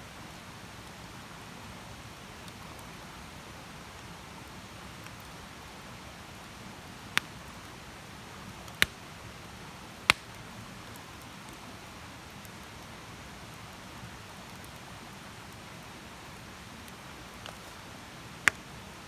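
Wood campfire burning: a steady soft hiss with a few sharp, isolated pops of the burning wood.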